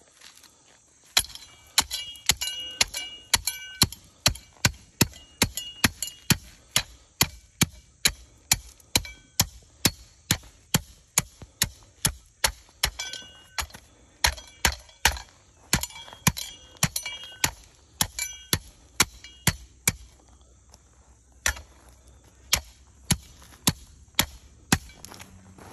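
Steel hand tamper pounding cold-patch asphalt into a driveway repair, about two blows a second with a short metallic ring after many of them. The blows pause briefly near the end, then resume.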